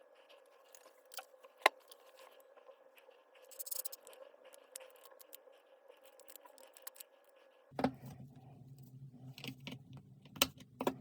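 Scattered sharp clicks, light metallic rattling and brief scrapes of tools and small metal parts being handled, with a loud click about a second and a half in and two more near the end. About eight seconds in, a steady low hum starts under the clicks.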